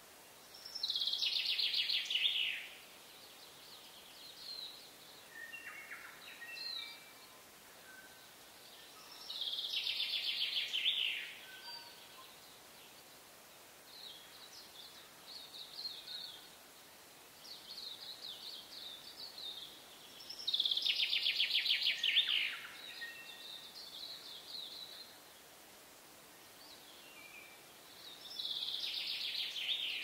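Songbird singing: four loud, fast-trilled song phrases of about two seconds each, every eight to ten seconds, each dropping a little in pitch, with softer chirps and short phrases between them.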